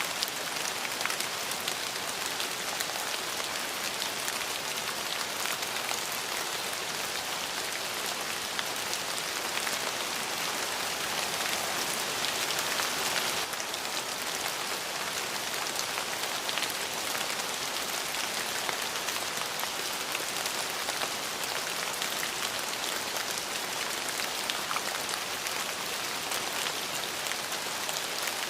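Steady rain falling, a constant hiss dotted with the patter of individual drops, swelling slightly a little before the middle.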